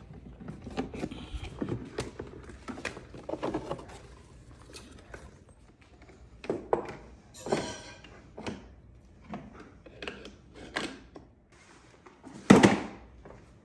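Scattered knocks and clicks from things being handled, with one loud thump near the end.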